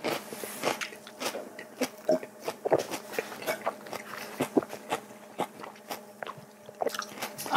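Close-miked eating sounds: chewing with a steady run of short, wet lip smacks and mouth clicks.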